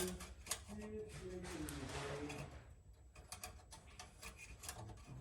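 Quiet, indistinct talking for the first two and a half seconds, then a few light clicks and taps of handling, over a low steady hum.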